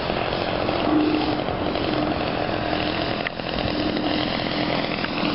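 Gasoline engine and propeller of a giant-scale RC Extra 330L aerobatic model plane running steadily, with a brief dip in loudness a little past the middle.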